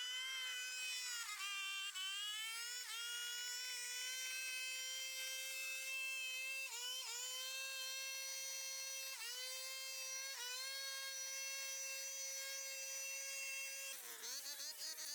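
A small power tool's motor whines at high speed. Its pitch sags and recovers about half a dozen times, the way a tool does as it bites into material, and near the end the whine turns rougher and warbling.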